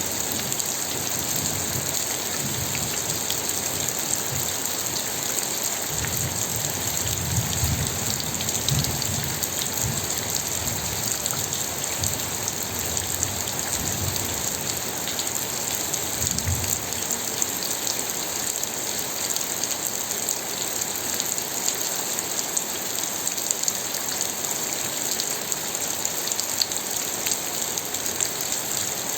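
Steady heavy rain, a dense hiss with scattered drop ticks. A low rumble comes and goes for a while in the middle.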